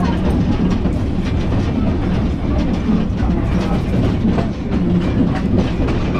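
Narrow-gauge train running along the track, heard from an open passenger car: a steady wheel-on-rail rumble with frequent irregular clicks and clacks.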